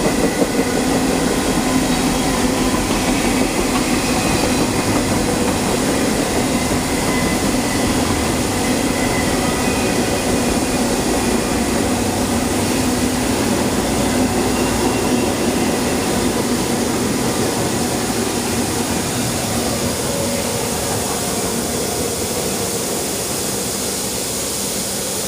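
Autorack and intermodal freight cars rolling past on the rails: a steady rumble and clatter of steel wheels, getting gradually a little quieter near the end.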